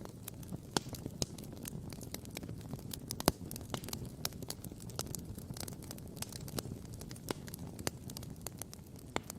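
Campfire crackling and popping: a dense run of irregular sharp snaps from burning wood, with one louder pop about a third of the way in, over a steady low rushing noise.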